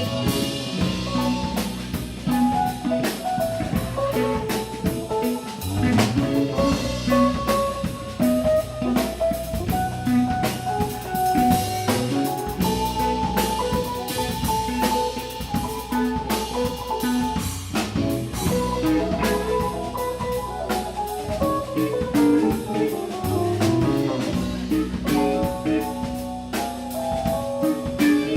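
Live funk band playing an instrumental passage: a drum kit keeps a steady beat under a moving guitar line.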